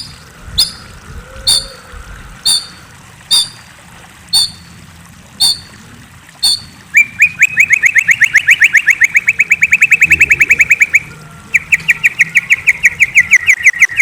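A murai songbird (Copsychus) gives sharp single chips about once a second, then breaks into a fast, even trill of about ten notes a second that pauses briefly and starts again.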